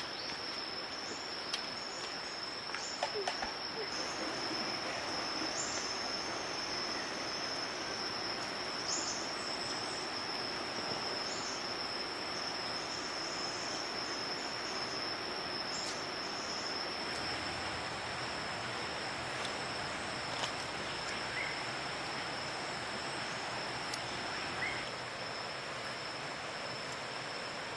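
Forest ambience dominated by a steady, high-pitched insect drone, with brief high chirps over it in the first half and a few faint clicks.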